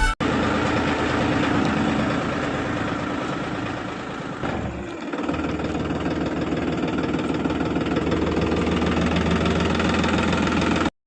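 Small electric motor and gears of a homemade toy tractor running steadily, dropping off briefly about halfway through before picking back up.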